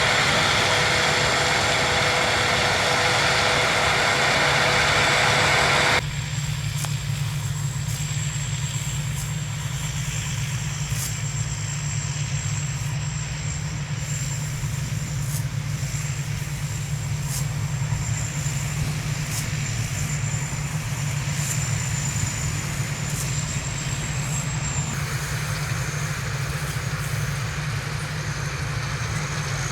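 An engine running steadily with a low drone, joined by a thin, steady high whine. The sound changes abruptly about six seconds in, as the upper noise drops away while the drone carries on.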